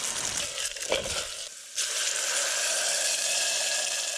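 Olive oil sizzling in a pan heated by a tuna-can alcohol stove: a steady frying hiss that drops away briefly about a second and a half in, then returns.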